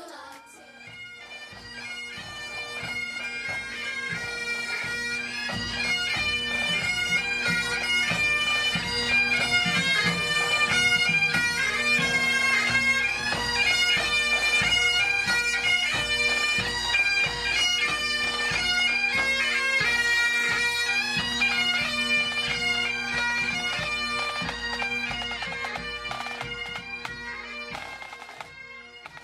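Bagpipe music: a piped melody over steady drones, swelling in over the first few seconds and fading out near the end.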